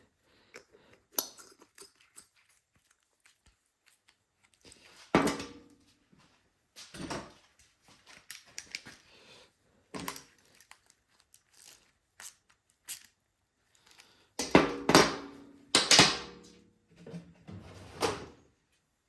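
Hands handling small carburetor parts: irregular clicks, knocks and rustling, with a louder run of knocks about fifteen seconds in.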